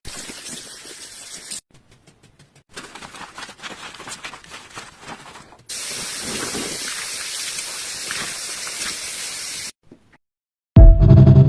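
Water spraying hard over a vacuum cleaner's filter as it is rinsed, in three runs: a short one, a patchy one, then a steady one of about four seconds. Loud music comes in near the end.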